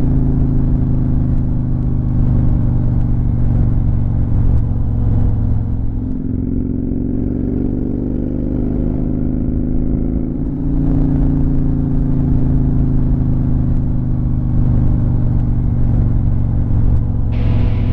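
Motorcycle engine running under way at road speed. The engine note eases off for a few seconds in the middle, then pulls back up at about ten and a half seconds.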